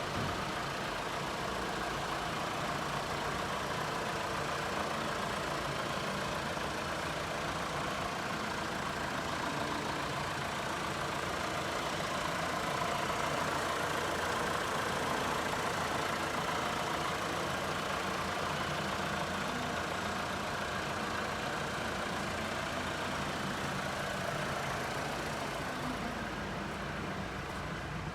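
Fiat Toro Volcano's 2.0 turbodiesel engine idling steadily.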